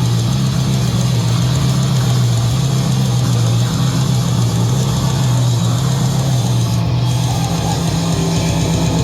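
Live heavy rock band playing loud: a sustained, heavily distorted low guitar and bass drone that holds steady with little drum beat.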